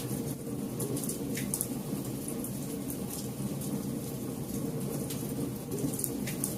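Campfire burning: a steady low rush from the flames with scattered sharp crackles and pops from the burning wood.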